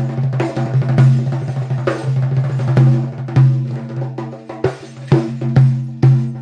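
Percussion music: drums struck in a steady rhythm over a held low note.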